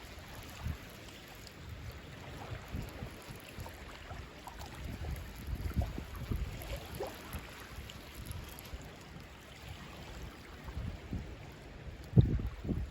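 Wind buffeting the microphone in uneven gusts, with a single sharp thump near the end.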